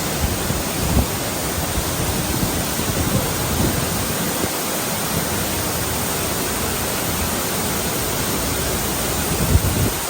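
A loud, steady rushing noise that starts abruptly, with a few low thuds in it.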